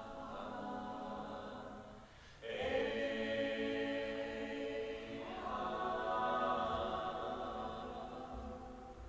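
A cappella choir singing long held chords. About two seconds in the sound breaks off briefly, then a new, louder chord comes in; the chord shifts again about five seconds in and fades near the end.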